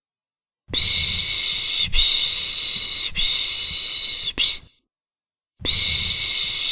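Soothing 'piş piş' shushing for a baby: a run of three long shushes, each about a second long, with a short one at the end, a second of silence, then the next run starting near the end.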